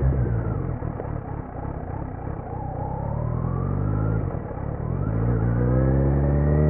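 2018 Kawasaki Z900's inline-four through a Leo Vince slip-on exhaust with no dB killer. It is off the throttle and quieter for the first few seconds, then pulls again, the pitch rising steadily over the last couple of seconds.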